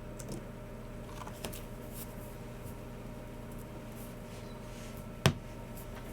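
Sparse clicks from a Logicool MX Keys Mini keyboard and G304 mouse: a few faint taps, then one sharp louder click about five seconds in, over a steady electrical hum.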